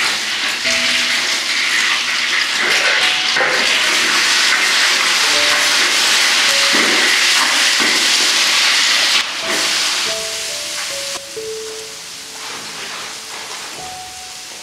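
Beaten egg sizzling loudly in hot oil in a wok while a metal spatula stirs it; the sizzle drops suddenly after about nine seconds and goes on more faintly.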